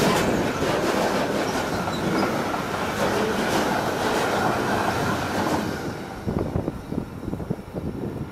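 Freight train of DB Schenker hopper wagons rolling past, a steady noise of wheels on rails that dies away about six seconds in as the last wagon goes by.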